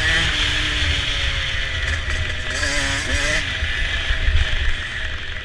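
Motocross dirt bike engine running hard during a race, its pitch rising and falling with the throttle, over a heavy steady rumble.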